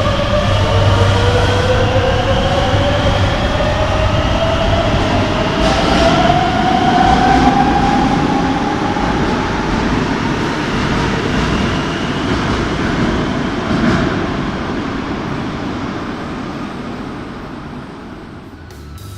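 Madrid Metro Serie 9000 train pulling away from the platform, its traction motors whining in several tones that rise in pitch as it speeds up, over the rumble of the wheels. The sound slowly fades as the train leaves.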